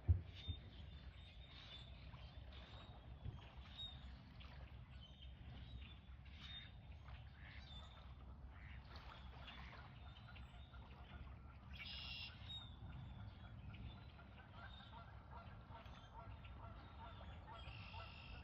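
Waterfowl calling on and off across a lake, with one louder call about two-thirds of the way through and a quick run of repeated notes near the end, over a steady low rumble. A single sharp knock comes right at the start.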